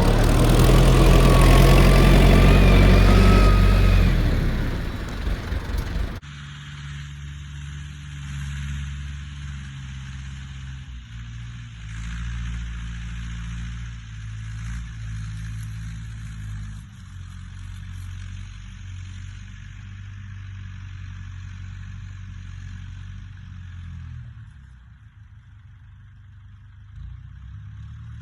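Fordson E27N tractor's Perkins P6 six-cylinder diesel running. For the first six seconds it is loud, with a wavering whine over it; then it cuts suddenly to a quieter, lower drone that rises and falls a little in pitch.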